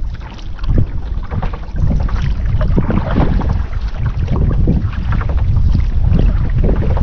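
Heavy wind noise on the microphone over irregular splashes and knocks from paddling a canoe through the water.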